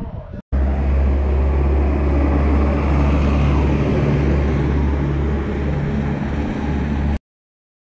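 A vehicle engine running steadily with a deep, even hum. It comes in suddenly about half a second in and cuts off abruptly near the end.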